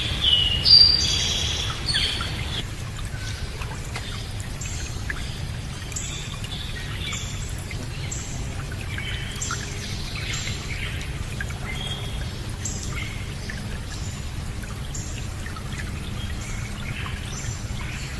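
Water running steadily, like a stream, under birdsong: a burst of louder bird calls in the first two seconds or so, then short repeated chirps and whistles throughout.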